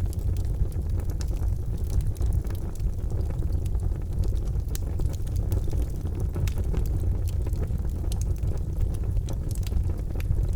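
Charcoal fire burning in a fireplace: a steady low rumble with scattered small crackles and pops.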